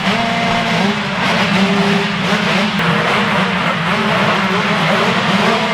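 A pack of 125cc two-stroke motocross bikes racing off the start together, many engines revving hard at once, their pitches overlapping and rising and falling.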